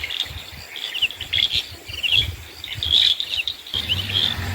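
Rainforest dusk chorus: birds giving short, high chirping calls repeated every fraction of a second, over a steady calling of insects, with a low rumble underneath.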